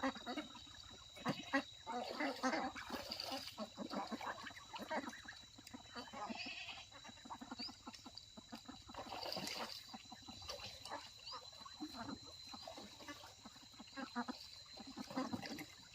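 Animals calling in runs of rapid pulsed calls, over a steady high-pitched tone.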